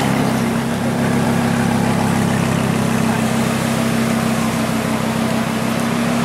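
Lamborghini Huracán's 5.2-litre V10 running at a steady low idle as the car creeps along, with no revving.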